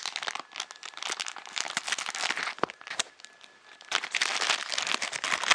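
Packaging crinkling and crackling as it is handled and opened, in irregular bursts with a quieter stretch about three seconds in before it picks up again.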